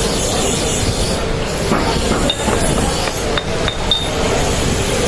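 Steady workshop noise with a few short, light metallic clinks in the middle stretch.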